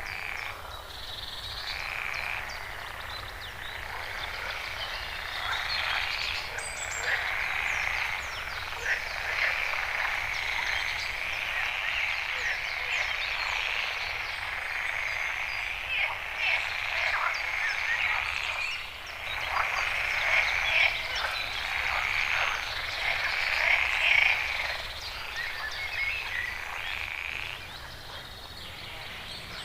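A dense chorus of many animals calling at once: countless short calls overlapping into a continuous din that swells and eases.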